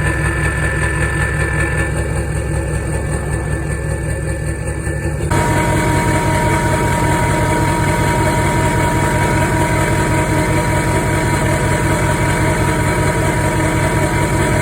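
Nissan Titan XD's V8 turbodiesel engine idling steadily with an even low throb. About five seconds in, the sound abruptly turns louder and fuller, with a steady whine on top.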